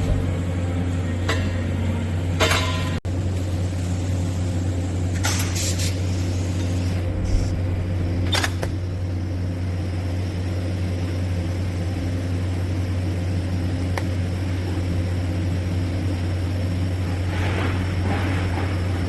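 Steady low electrical hum with a constant hiss from TIG welding on stainless steel pipe, broken by a few sharp clicks in the first half.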